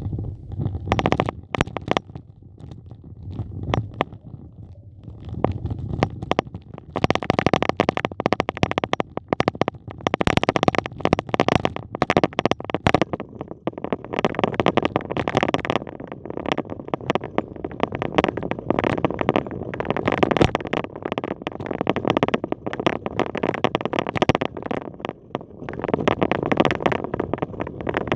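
Wind rumbling on the microphone of a moving bicycle, with dense crackling and rattling from the tyres and frame on a rough path.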